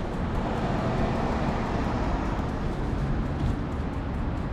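Steady city street traffic noise with a heavy low rumble.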